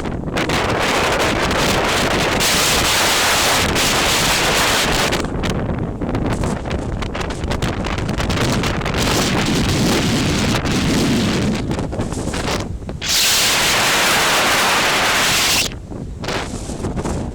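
Strong gusting wind buffeting the microphone, a continuous rumbling rush that swells and dips. About thirteen seconds in a harder, louder hissing gust hits for a couple of seconds and then cuts off suddenly.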